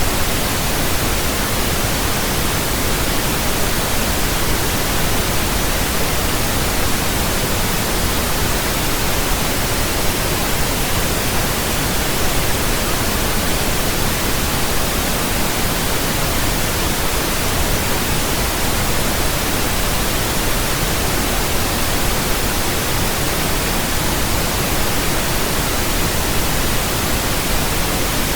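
Pink noise: a steady, even hiss spread across all pitches, with more weight in the low end than white noise, unchanging throughout.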